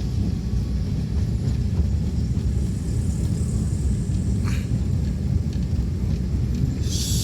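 Steady low rumble of a vehicle travelling along a road, engine and road noise, with a short high hiss near the end.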